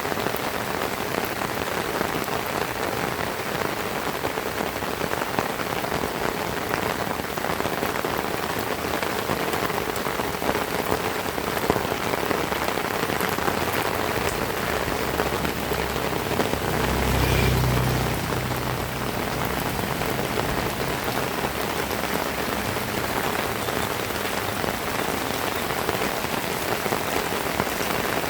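Heavy rain falling steadily, with many small sharp drop ticks. A low rumble swells and fades over about two seconds roughly two-thirds of the way through.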